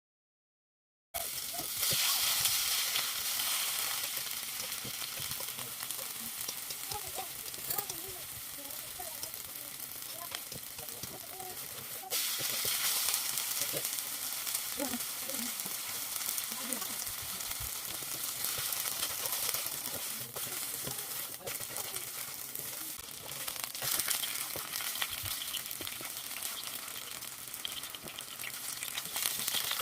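Korean chive pancake (buchujeon) frying in hot oil in a pan: a steady, crackly sizzle. It starts suddenly about a second in and jumps a little louder partway through.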